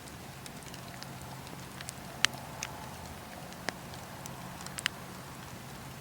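Wood campfire crackling, with scattered sharp pops over a steady background; the loudest pop comes about two seconds in, and a few more follow.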